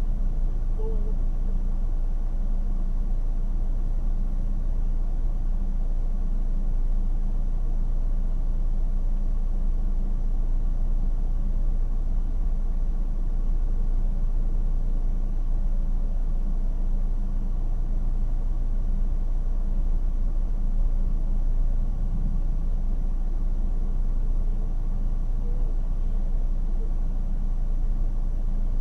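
Car engine and road noise heard from inside the cabin while driving: a steady low rumble with an even hum.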